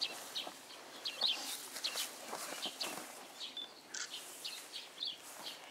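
Small birds chirping in short, high calls, many times over, with faint rustling of outdoor ambience.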